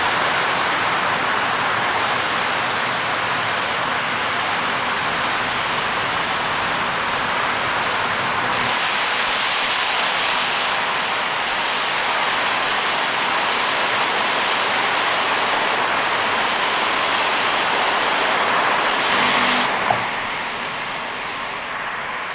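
Heavy rain and tyre spray, a steady rushing noise, from a car driving on a rain-soaked expressway. Near the end the rush swells briefly, there is a single sharp click, and the noise then drops somewhat.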